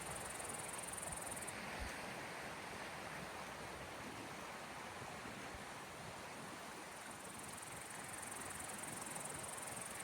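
Small waves washing steadily onto the shore of the sea. A high, even chirring drops out about a second and a half in and comes back near the end, and there is one soft low thump about two seconds in.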